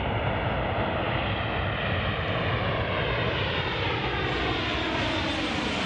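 Ilyushin Il-76TD's four Soloviev D-30KP turbofan engines running on landing approach: a loud, steady jet noise with a slowly falling pitch as the plane passes.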